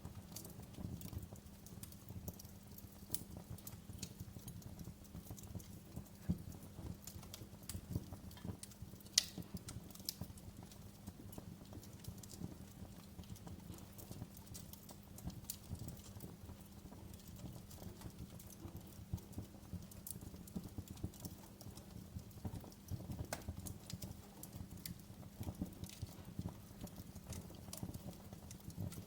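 Wood fire in a fireplace crackling, with frequent small irregular pops and snaps and one sharper pop about nine seconds in, over a low steady hum.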